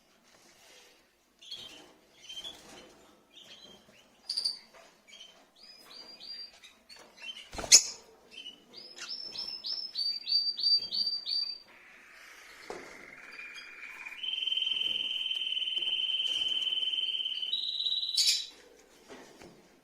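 Rosy-faced lovebirds chirping: scattered short chirps, then a quick run of repeated chirps. There is a sharp knock about eight seconds in, and a long, steady shrill note near the end that steps up in pitch just before stopping.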